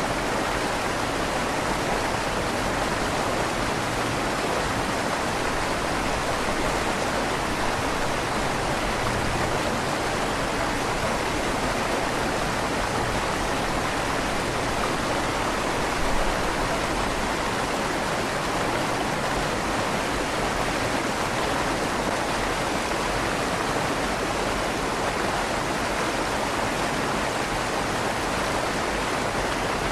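River water flowing under a stone bridge: a steady rushing with a slight echo off the inside of the stone tunnel, and one brief louder moment about halfway through.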